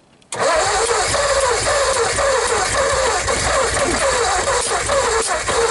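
1959 Ford Custom 300's 292 Y-block V8 cranking over on the starter motor in a steady, even rhythm without catching, as the long-dormant engine is turned over for a first start. The cranking starts about a third of a second in.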